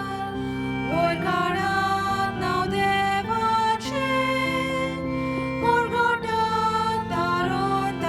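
A church hymn sung with instrumental accompaniment: a slow melody of held notes over sustained chords.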